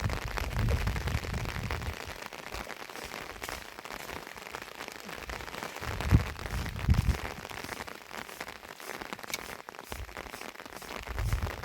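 Heavy rain falling steadily, a dense hiss of many drops, with brief low rumbles at intervals, the loudest about six seconds in.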